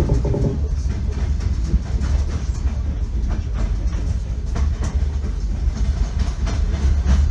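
Passenger train running at speed: a steady low rumble with the wheels clacking over rail joints again and again.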